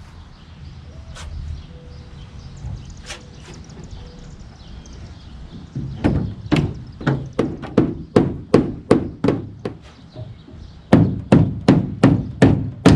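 A run of sharp, evenly spaced knocks on the aluminum hull of a 1962 Mirrorcraft fishing boat, about two to three a second, as its bench seats are worked back into place. They start about halfway through, stop briefly, and resume near the end.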